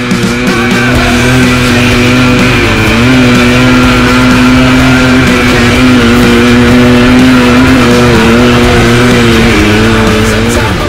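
Suzuki TS125 trail bike's two-stroke single-cylinder engine running at high revs under load up a steep dirt track, its pitch dipping and rising slightly a few times.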